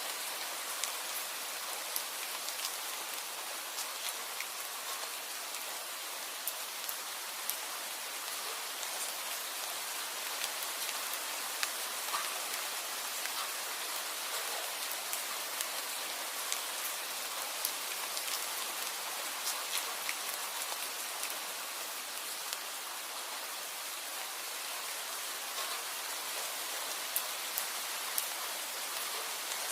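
Steady rain: an even hiss of rainfall with individual drops ticking sharply and irregularly on a hard surface.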